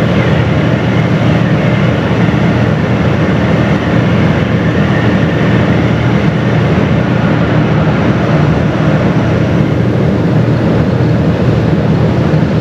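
Car ferry under way: a steady, loud rumble and rush of its engine and the water, with no distinct splashes or other events.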